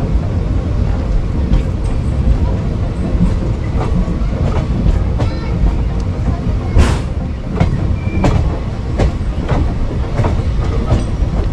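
A train running along the track: a steady low rumble with repeated sharp clacks of the wheels passing over rail joints, one louder clack about seven seconds in.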